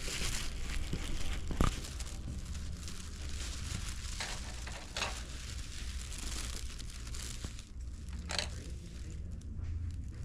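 Rustling and crinkling, with a few sharp clicks, over a low steady hum.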